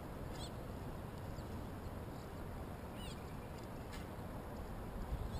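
Birds giving short, high chirping calls every second or so over a steady low rush of wind and water, with one light click about four seconds in.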